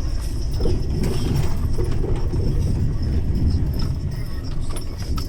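Steady low rumble of a vehicle driving, heard from inside its cab, in blizzard winds.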